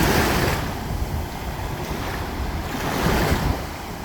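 Ocean waves washing onto a rocky lava shore, with wind buffeting the microphone. The surf swells louder at the start and again about three seconds in.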